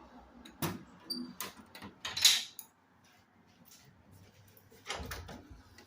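A caboose compartment door and its latch being worked: a few sharp clicks and knocks, with a short scraping rush a little past two seconds in that is the loudest sound, and a dull thump near the end.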